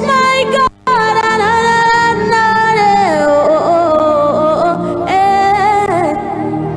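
Worship song: voices singing long, wavering held notes over steady backing music. The sound cuts out briefly just under a second in.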